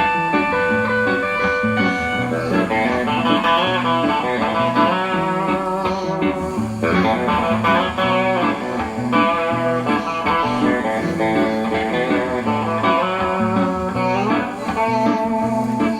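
Guitar music: held notes for about the first two seconds, then busy, fast-picked guitar lines over a repeating low bass part.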